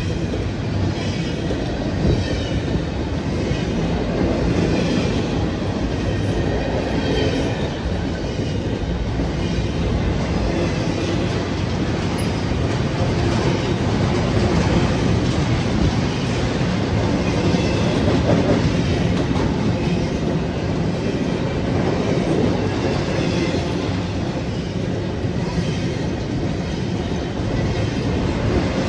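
Empty BNSF intermodal well cars rolling past close by: steel wheels rumbling and clattering on the rails at a steady, even level.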